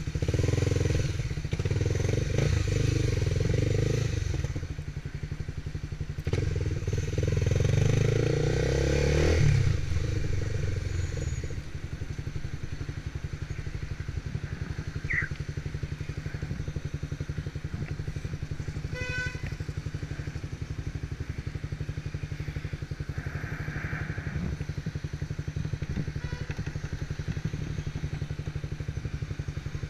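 Motorcycle engine pulling loudly twice, its pitch dropping as it eases off about ten seconds in, then running steadily at a lower level.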